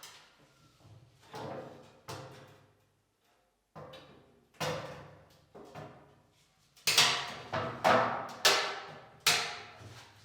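A series of irregular knocks and clunks, about ten of them, each dying away quickly, with the loudest close together in the last few seconds.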